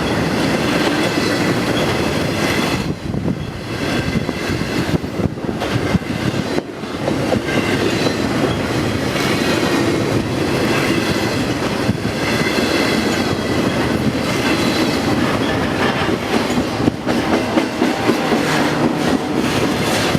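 A train rolling past, its cars' wheels running on the rails with repeated knocks over the track.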